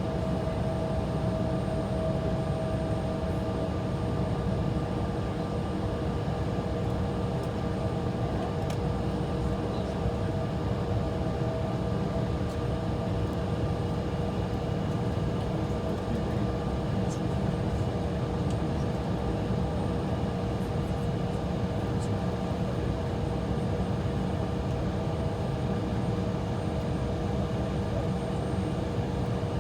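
Steady cabin noise inside an Embraer E175 holding on the taxiway: a low hum from the running engines and air system, with a few steady whining tones on top, unchanging throughout. A few faint ticks come through.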